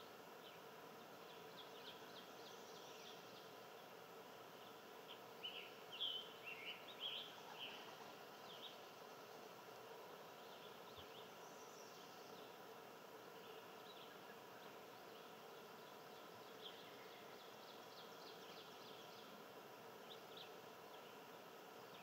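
Faint wild bird chirps, a quick flurry of short calls about five to eight seconds in and a few scattered ones later, over a faint steady hum.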